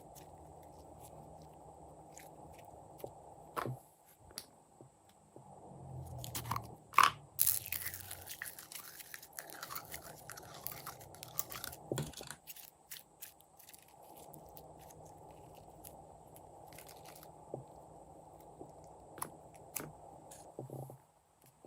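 Glossy slime being squished and folded by hand, with sticky crackling, clicks and crunchy pops from the mixed-in bits, busiest about a third of the way in.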